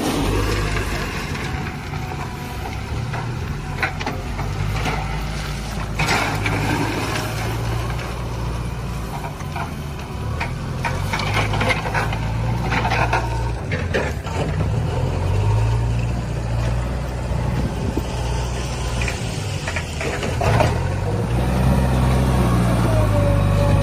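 JCB 3DX backhoe loader's diesel engine running, its revs rising and falling several times as it works, with scattered metallic knocks and clanks.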